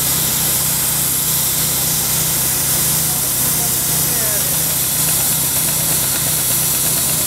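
Engine-driven machinery running steadily, with a regular pulsing low throb under a broad hiss.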